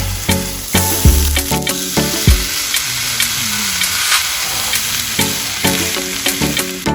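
Meat frying in a hot pan, sizzling steadily, over background music.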